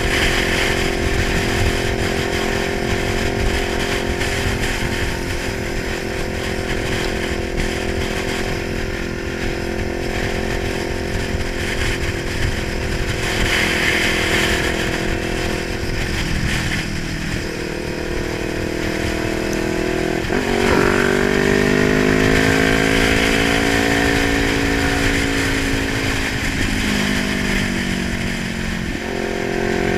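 Kawasaki 900 motorcycle engine running, its revs steady at first, dipping about two-thirds of the way through, then jumping up sharply and slowly falling before picking up again near the end.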